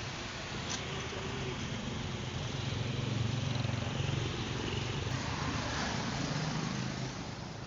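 A vehicle engine running steadily with a low hum under a haze of noise, growing a little louder through the middle and easing off near the end.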